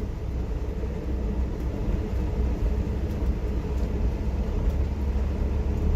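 Steady low rumble of a vehicle driving on a wet road in the rain, heard from inside the cab, with an even hiss over it.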